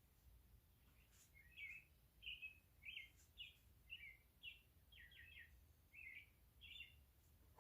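Faint bird chirping: a string of short chirps, about ten over five seconds, over a low background hum.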